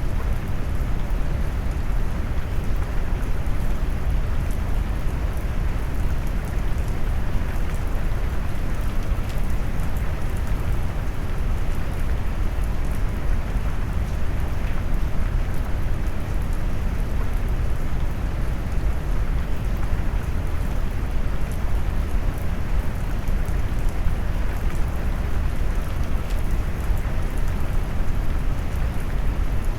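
Steady rain mixed with deep brown noise: a constant low, warm rushing, with faint raindrop patter on top.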